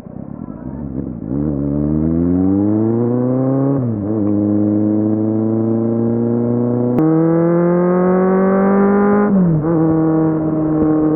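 Kawasaki Z750 inline-four engine under way. From about a second in it pulls with rising pitch. Near four seconds the pitch drops sharply at a gear change, then holds steady. Around seven seconds it steps up suddenly and climbs again under throttle, drops near nine and a half seconds, and then cruises steady.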